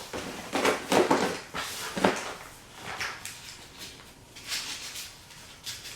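Handling noise from plastic tackle boxes and bait packs: rustling in the first second or so and a sharp plastic click about two seconds in, then softer shuffling.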